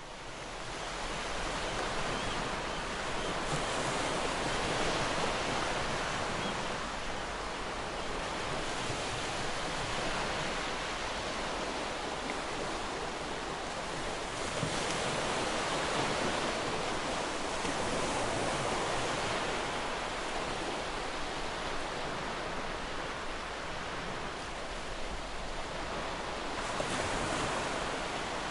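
Ocean surf washing in continuously, swelling and easing every few seconds. It fades in over the first couple of seconds.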